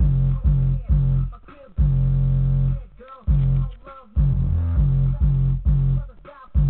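Music with bass guitar and guitar, played by a Pioneer DEH-P5950IB car stereo through a Kadett's factory 4x6-inch speakers. Heavy bass notes are broken by short pauses.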